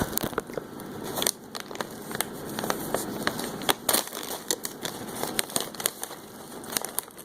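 Snack bag of Kung Pao pretzels crinkling and crackling as it is opened and handled, with crunching as the pretzels are eaten: many irregular sharp crackles and clicks.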